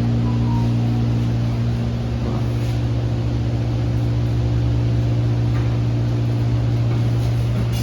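Steady machinery hum: a constant low drone with a strong unchanging low tone and a few fainter steady tones above it.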